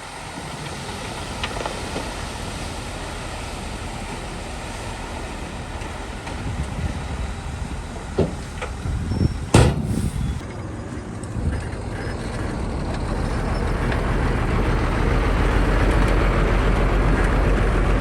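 Heavy diesel earthmoving machinery running steadily, with a few sharp knocks and one loud short burst about halfway through. The engine then builds up and runs louder and heavier over the last several seconds.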